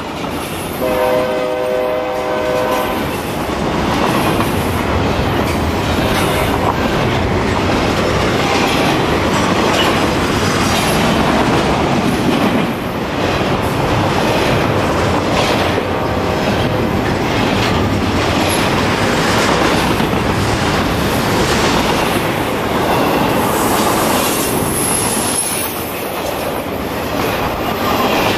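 Freight locomotive air horn sounding a chord for about two seconds near the start. Then a long double-stack intermodal freight train rolls past with steady wheel-on-rail rumble and rhythmic clickety-clack, and a brief high wheel squeal near the end.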